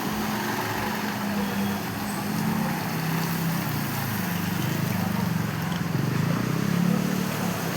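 Motor vehicle engine running steadily amid road traffic noise, with no crash impact heard.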